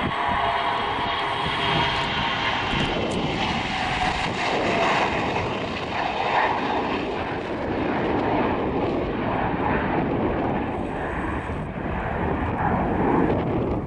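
Gulfstream business jet's twin rear-mounted turbofans at takeoff power: a loud, steady jet roar that swells and wavers slightly.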